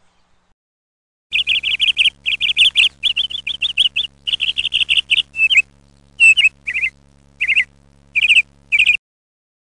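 House sparrow chirping: fast runs of chirps, several a second, starting about a second in, then single chirps spaced further apart, stopping suddenly near the end. A faint steady hum runs under the chirps.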